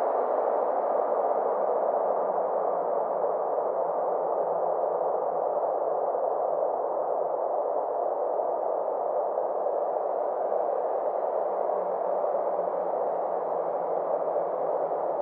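Synthesized space-ambience drone: a steady, muffled whooshing noise with a faint hum beneath, its brightness slowly dipping and rising again.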